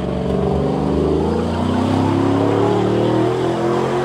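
Vehicle engine accelerating, its pitch climbing for about two seconds and then holding steady.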